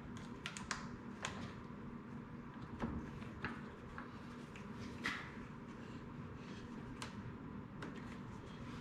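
Scattered light clicks and knocks of plastic trim clips and a car grille being handled and pressed into place, over a faint steady hum.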